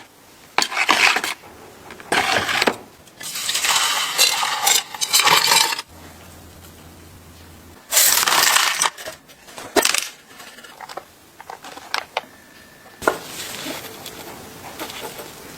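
Small metal parts being handled on a workbench: clinks and scrapes, with several bursts of scrubbing or brushing noise lasting up to about two seconds each and a run of scattered sharp clicks near the end.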